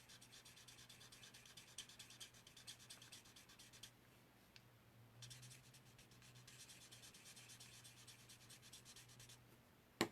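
Alcohol blending marker rubbing in quick circles on stamped cardstock: a faint, fast, even scratching that pauses for about two seconds midway.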